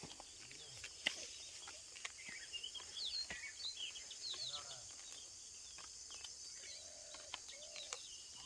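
Parrots giving a run of short, high chirps in the middle, over a steady high-pitched hiss, with scattered sharp clicks.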